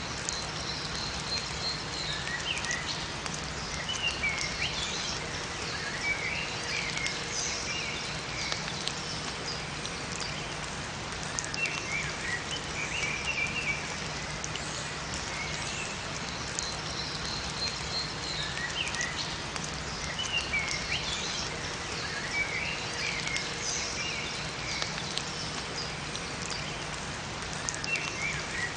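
Steady rain falling in a forest, with small songbirds chirping and twittering in short phrases every few seconds and a high thin trill now and then.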